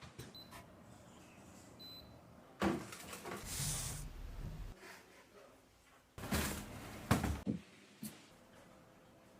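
A few knocks and short rustling noises of things being handled, the loudest cluster a little past the middle.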